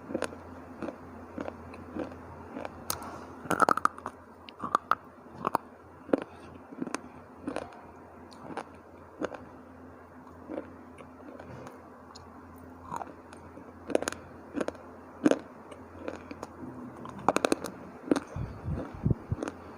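Dry, hard slate-bar chips being bitten and chewed close to the microphone: irregular sharp crunches, coming in quicker clusters a few times, over a faint steady hum.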